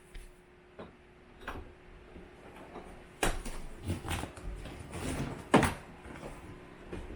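Box and packaging being handled: a few light clicks at first, then from about halfway a run of rustling and knocks, with one sharp knock the loudest.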